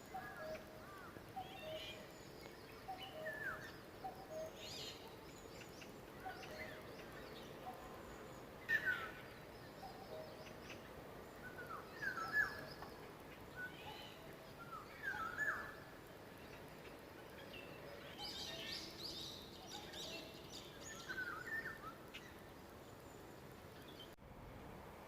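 Wild forest birds calling and singing over a faint steady background hiss, with several kinds of call mixed: repeated short down-slurred whistles, high thin chirps and lower notes. The sound drops out briefly near the end.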